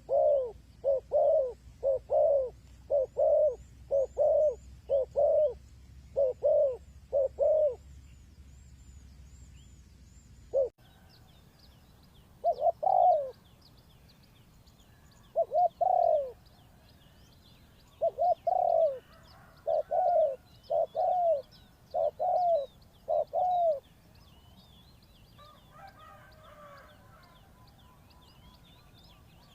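Spotted dove cooing: repeated short, low coos in two runs, the first a quick series and the second more spaced. Faint high chirps of other small birds sound behind.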